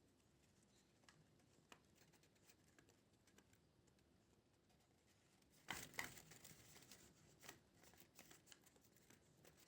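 Near silence: faint room tone with a few soft ticks, and two brief faint clicks a little past halfway.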